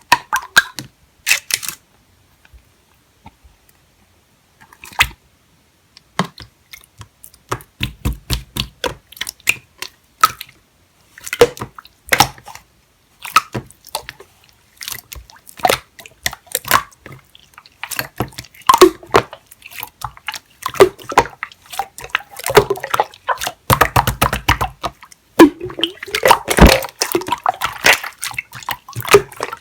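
Clear slime being squished and pressed by hand, giving wet, sticky clicks and squelches in irregular runs that grow busier in the second half.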